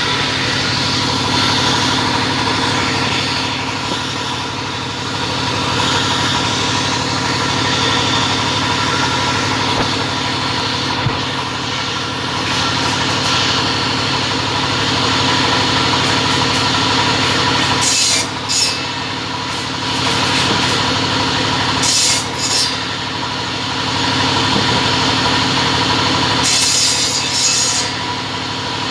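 Double-head cutting saw running steadily with an even motor hum, broken by three brief, harsh bursts in the second half.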